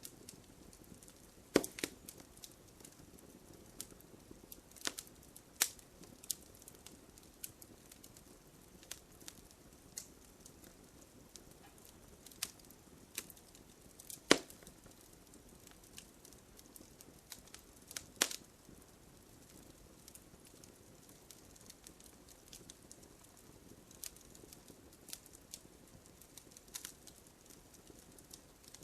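Wood campfire crackling, with irregular sharp pops over a soft low hiss; the loudest pops come about a second and a half in, near the middle, and a few seconds later.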